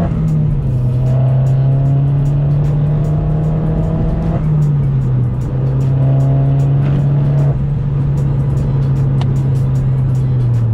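Opel Corsa OPC's 1.6-litre turbocharged four-cylinder engine heard from inside the cabin, rising in revs under acceleration twice and dropping sharply at gear changes about four and seven and a half seconds in. Background music plays under it.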